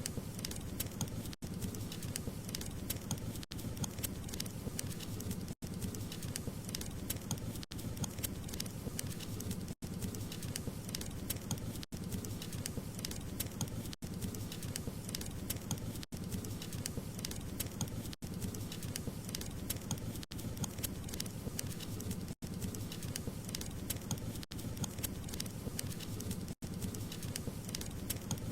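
Wood fire crackling with many small pops over a steady low rumble of flames. The sound drops out for an instant about every two seconds.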